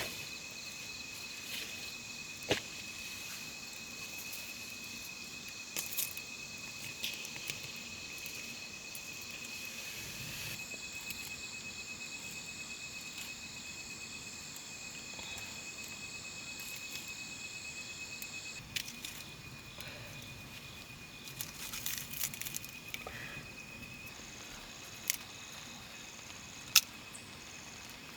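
A steady high-pitched chorus of insects chirring without pause, its upper layer changing a couple of times, with a few sharp, isolated clicks or snaps on top.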